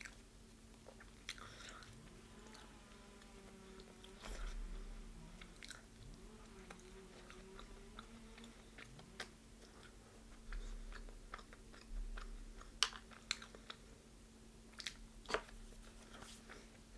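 A person biting and chewing crispy deep-fried chicken close to the microphone: soft, wet chewing broken by scattered sharp crunches, with a few louder crunches in the second half.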